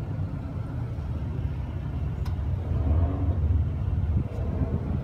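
Dodge Challenger SRT Hellcat's supercharged 6.2-litre Hemi V8 idling with a steady low rumble.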